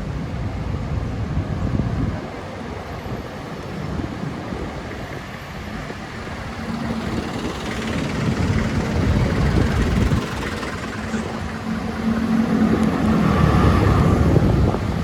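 Street traffic heard from a moving bicycle: a low rumble of passing vehicles, with a steady engine hum that swells twice, loudest near the end.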